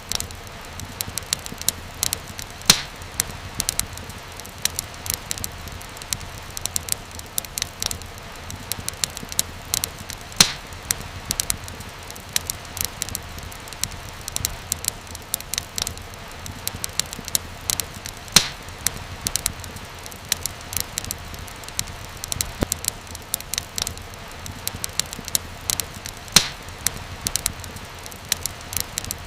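Wood fire crackling, with many small irregular pops and a louder snap about every eight seconds, over a steady low hiss.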